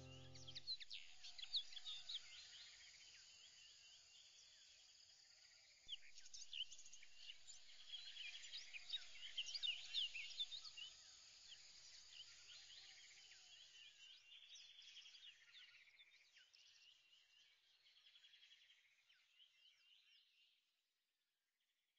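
Faint bird chirping, many short quick calls over a soft hiss, fading out near the end.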